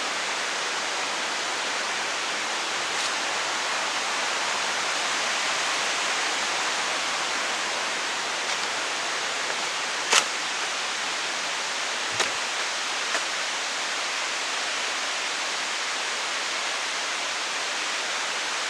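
Waterfall with a steady rush of falling water. A sharp click about ten seconds in, and two fainter knocks shortly after.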